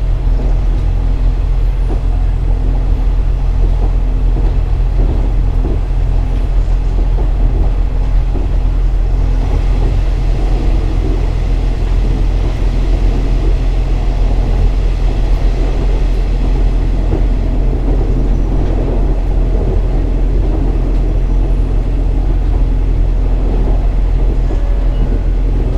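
KiHa 47 diesel railcar running along the line, a steady loud engine and running drone. A higher whine comes in about nine seconds in and fades out after a few seconds.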